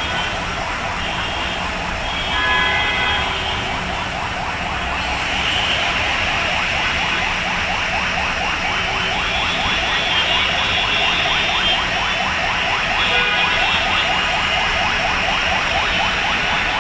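Heavy rain pouring down steadily. Through the middle seconds a fast, evenly repeating chirping tone runs over it.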